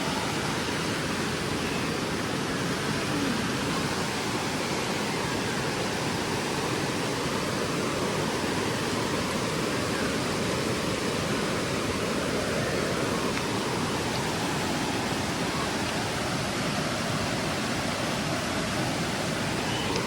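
Waterfall rushing steadily, an even roar of falling water with no change in level.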